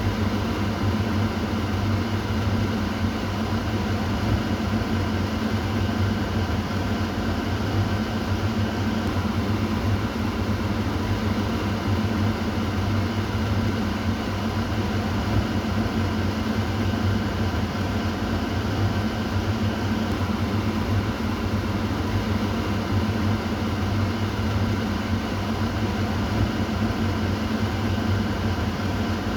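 Kitchen exhaust fan running steadily: a low motor hum under an even rush of air.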